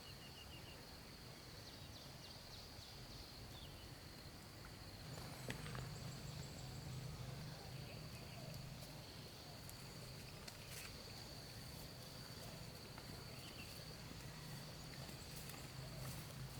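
Faint outdoor ambience: a steady, high insect drone, with scattered light clicks and knocks. A low hum comes in about five seconds in.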